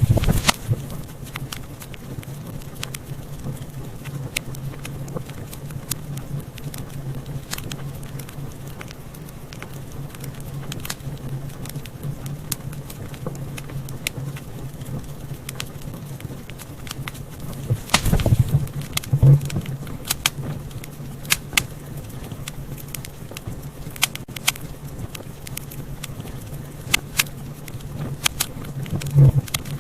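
Wood fire crackling in a fireplace: frequent sharp pops and crackles over a steady low rumble, with a cluster of louder pops about two-thirds of the way through.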